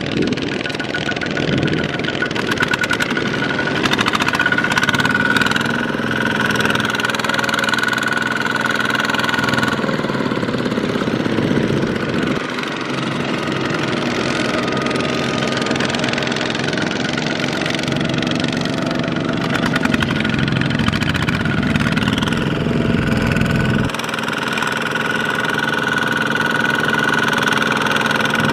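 Small Kubota single-cylinder diesel tractor engine running steadily, its pitch shifting a few times as it works.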